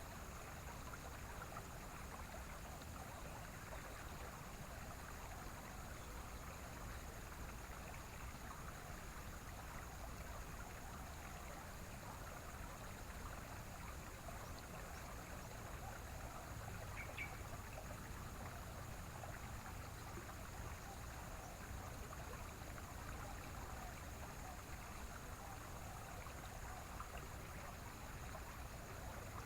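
Faint, steady rush of running water, with a thin, steady high tone over it. One short, high chirp comes about two-thirds of the way through.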